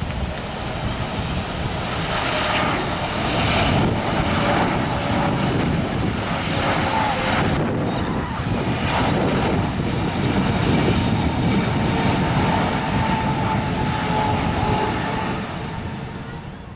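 Boeing 777 airliner jet engines on approach, a loud rumble with a thin steady whine above it, swelling over the first few seconds and fading away near the end.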